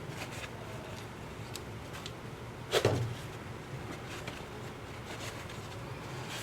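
Small hand tools handled on a workbench during a smartphone camera-lens repair: scattered faint clicks over a low steady hum, with one louder clack about three seconds in.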